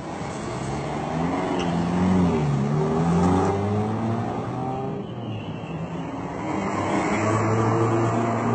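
Car engine accelerating, its pitch rising, dropping and rising again as it speeds up through the gears, then running more steadily near the end.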